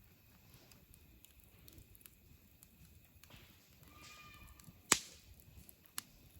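Wood campfire burning with faint scattered crackles, and a sharp loud pop about five seconds in followed by a smaller one a second later.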